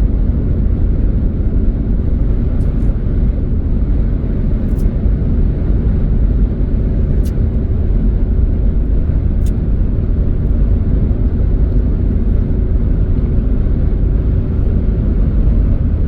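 Steady low rumble of a car's engine and tyres, heard from inside the moving car, with a faint steady hum.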